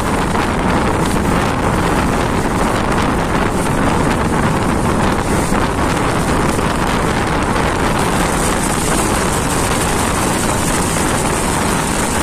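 Moving passenger train: a steady rushing of wind and running noise from the wheels and track, with wind buffeting the microphone.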